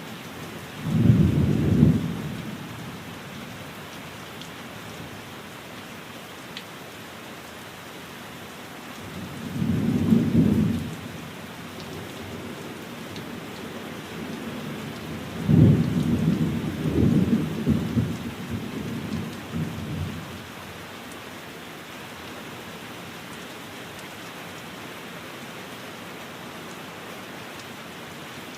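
Steady heavy rain with three low rolls of thunder: a short one about a second in, another around ten seconds, and a longer rumbling one with several swells in the middle.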